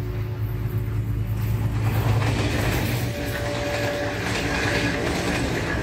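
Passenger train passing at speed. The diesel locomotive's engine drone is loudest about two seconds in as it goes by, then the coaches rush past with a steady roar of wheels on rails.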